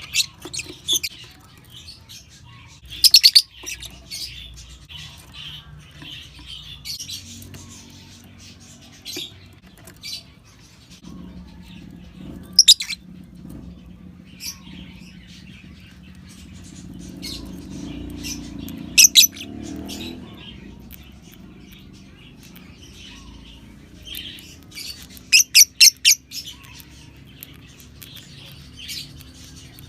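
Lovebirds chirping: clusters of sharp, shrill chirps every few seconds, over softer, continuous twittering.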